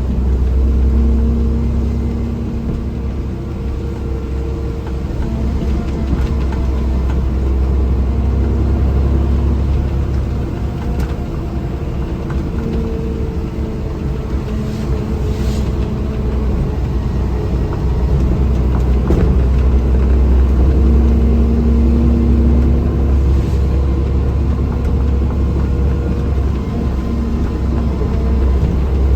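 A motor vehicle driving, heard from inside the cab: a steady low engine drone with road rumble, the engine note drifting up and down slightly.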